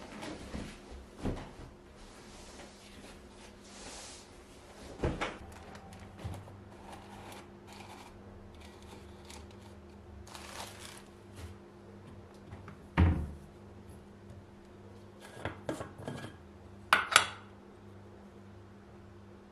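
Dishes and utensils being handled: scattered clinks and knocks, with two sharper knocks in the second half, over a steady low hum.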